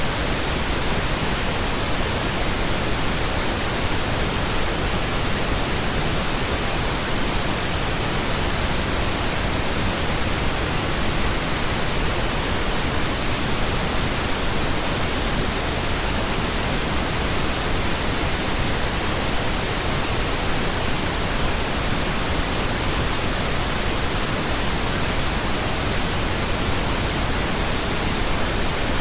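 Synthetic pink noise: a steady, unchanging hiss spread evenly from low to high pitches.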